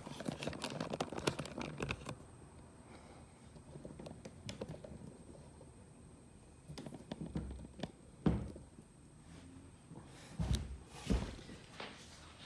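Scattered knocks, taps and rustling of hands handling things in a small room: a busy patch of rustle and taps at first, then a sharp knock about eight seconds in and two more thuds near the end.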